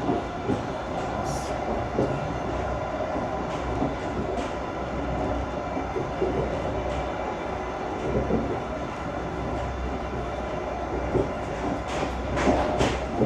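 Brightline passenger train running at speed, heard from inside the car: a steady rumble and rushing noise with scattered clicks and knocks from the wheels and carriage, a few sharper knocks near the end.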